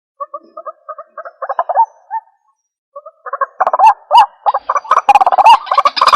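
White-breasted waterhen calling: short repeated call notes, spaced out at first, a brief pause about two seconds in, then a rapid, dense run of notes building up from about three and a half seconds.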